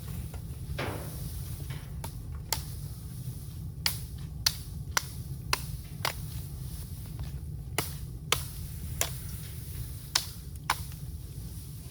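Bamboo burning in an open fire: about a dozen sharp, irregular cracks and pops over a steady low rumble.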